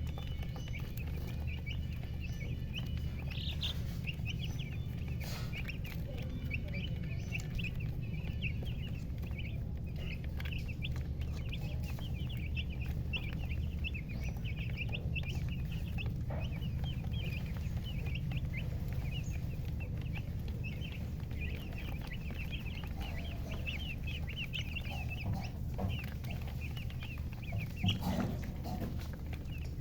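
Chickens chirping: quick, short, high peeps, several a second, keep up for most of the time over a steady low hum. A couple of knocks come near the end.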